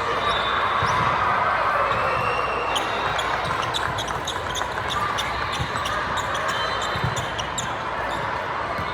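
Basketball game in a gym: the ball thuds on the court and sneakers squeak, over a steady murmur of voices in the hall.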